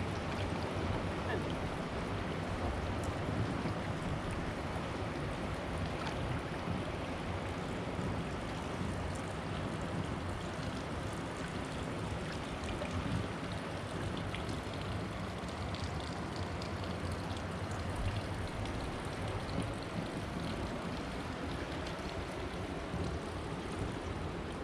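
Steel barge's engine running steadily under way, with the rush of water and wind over it.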